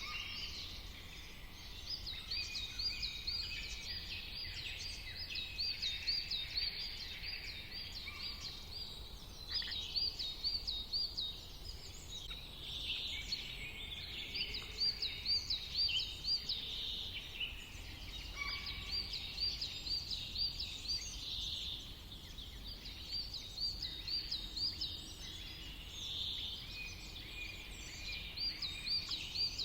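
A chorus of songbirds singing over one another, with one bird repeating a short, fast, high trilled phrase every few seconds above the rest.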